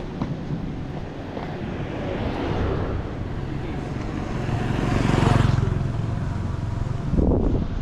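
An engine's steady low rumble with wind buffeting the microphone, swelling to a louder rush about five seconds in.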